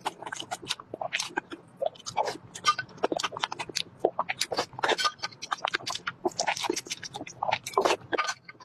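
Close-up mouth sounds of someone eating whole boiled eggs: chewing and biting, with rapid, irregular smacks and clicks.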